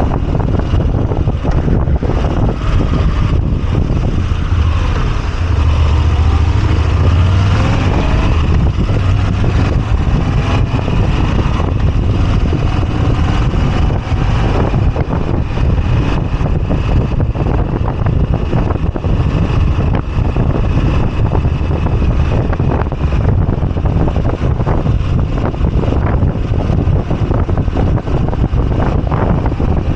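Moto Guzzi V85TT's V-twin engine running under way on the road, mixed with heavy wind rumble on the microphone. Higher sounds sweep up and down in pitch about five to nine seconds in.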